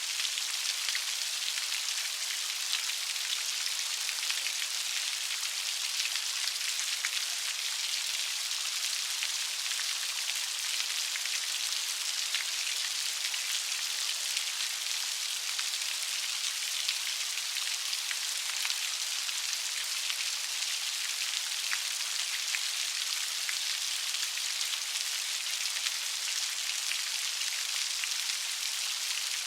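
Steady light rain falling on a surface, an even hiss flecked with the ticks of individual drops.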